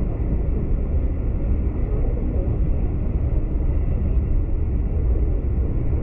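Steady low rumble of a V/Line passenger train, heard from inside a carriage.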